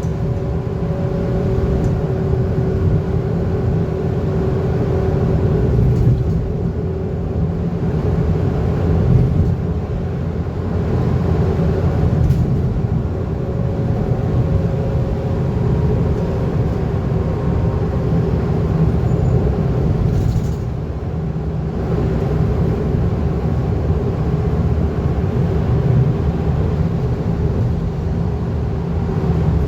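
Scania N230UD double-decker bus's five-cylinder diesel engine running under way, heard from on board over steady road noise, a continuous low rumble with a faint steady whine.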